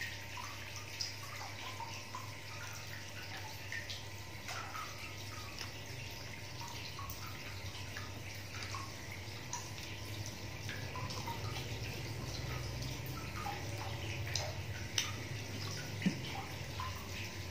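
A person chewing soft fried banana coated in chocolate sauce and grated cheese: scattered small wet smacks and clicks of the mouth, with a couple of sharper ones near the end, over a steady low hum.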